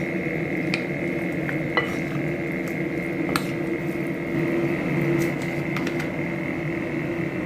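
Marinated chicken pieces being stirred in a bowl to coat them in cornstarch: a steady wet mixing noise with a few light clicks against the bowl, over a faint steady hum.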